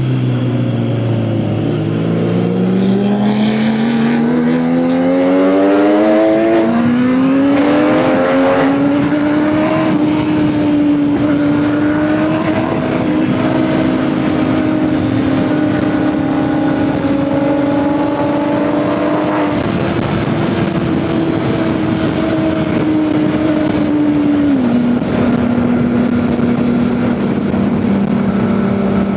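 Kawasaki ZX-10R inline-four superbike engine under way: it revs up through a gear, shifts up about 7 seconds in and pulls again, then holds a steady cruise, dropping a step in pitch near the end. Wind rush runs under the engine note.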